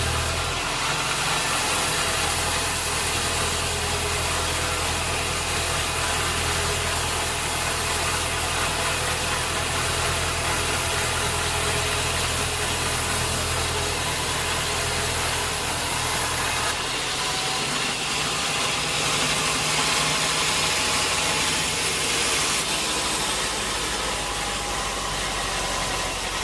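Sawmill machinery running steadily: a motor's low hum under a broad hiss. The low hum drops away about two-thirds of the way through while the hiss carries on.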